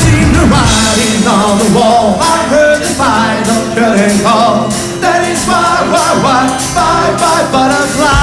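Live rockabilly band playing, with a steady drumbeat under a lead line that bends in pitch.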